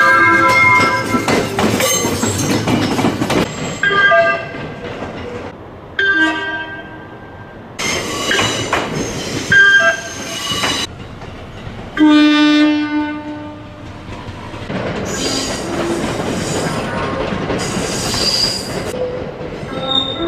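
A string of JR West train horns sounded one after another: air horns and whistles in separate blasts of a second or two up to several seconds, each cut off sharply, with passing-train noise between them.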